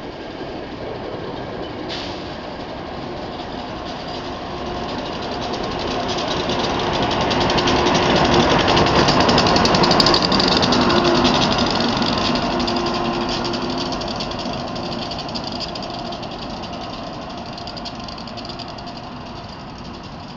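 SEPTA push-pull commuter train of Bombardier Comet II cars passing, with its ASEA AEM-7 electric locomotive pushing at the rear. The sound grows louder as the locomotive comes by about nine to ten seconds in, with a steady hum over the rolling noise, then fades as the train pulls away.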